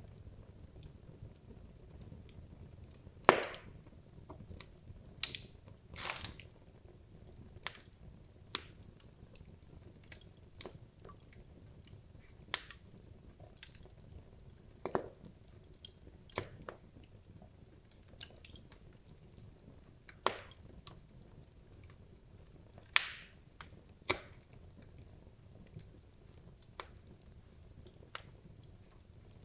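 Wood fire burning in a fireplace: a low steady hiss with irregular sharp crackles and pops from the burning logs, a few of them much louder than the rest.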